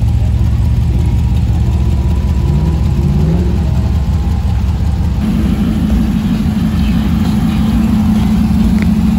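Car engines running at low speed as cars drive past: first the low rumble of a custom Chevrolet Impala station wagon, with a brief rise and fall in engine pitch about three seconds in. After an abrupt change about five seconds in comes a louder, higher engine note from a flame-painted hot rod coupe with an exposed engine.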